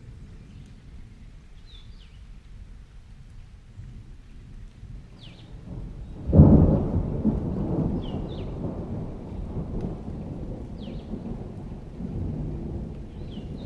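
Thunderstorm ambience: a low rumble of thunder under steady rain, then a loud thunderclap about six seconds in that rolls on and slowly fades. Short high bird chirps repeat every couple of seconds throughout.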